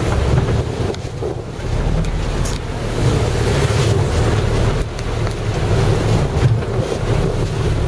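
Strong, gusting wind blowing across the microphone in a heavy low rumble, with surf from the sea underneath.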